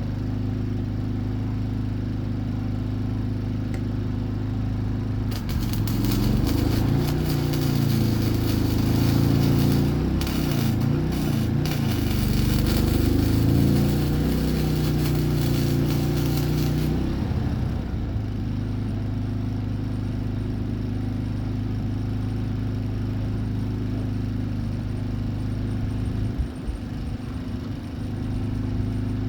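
Electric welder humming steadily; from about five seconds in, an arc weld crackles and sizzles for roughly eleven seconds, then stops and the hum carries on. The weld is sealing the seams of a layered steel-and-copper billet ahead of forge welding.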